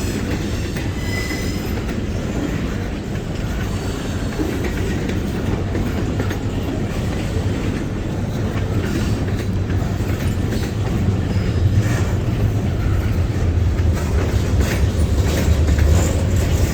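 Freight cars of a long train rolling past, a steady rumble of steel wheels with clickety-clack over the rail joints and light, brief wheel squeal now and then. It grows louder toward the end.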